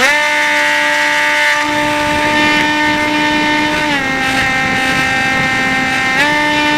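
Dynam Hawk Sky RC plane's electric motor and propeller spinning up sharply to a loud, steady whine as the throttle opens, dipping slightly in pitch about four seconds in and climbing back about two seconds later.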